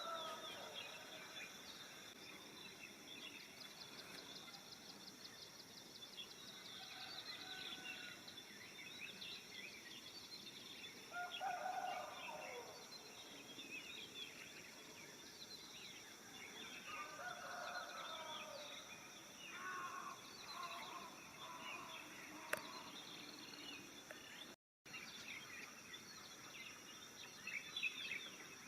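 Many birds chirping and trilling in a dawn chorus over a steady high insect drone. Now and then a louder, lower call stands out, about a third and two-thirds of the way in. The sound drops out for an instant near the end.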